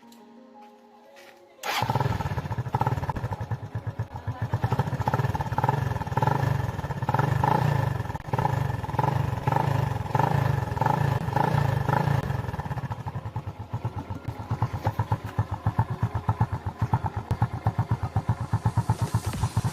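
Motorcycle engine running with rapid, even firing pulses. It comes in suddenly after about a second and a half of quiet, then swells and eases in level for several seconds before settling to a steadier run.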